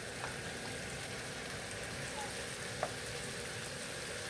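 Chopped onions frying in butter in a pan, a steady sizzle, with a couple of faint short clicks from a utensil or the pan.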